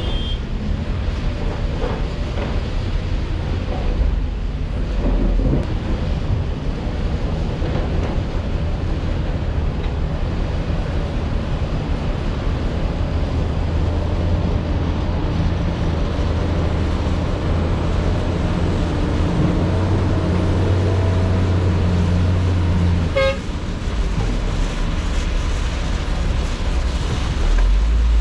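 Heavy diesel construction machinery running steadily under load, with the low engine note growing stronger for several seconds in the middle. A single sharp knock about 23 seconds in.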